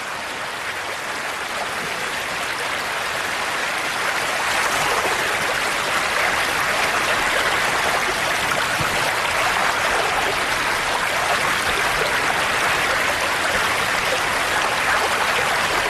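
Rushing river water: a steady, dense rush of fast-flowing water, swelling a little over the first few seconds and then holding steady.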